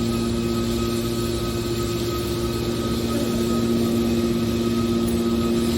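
Hydraulic metal baler's power unit running, a steady machine hum with a few constant tones.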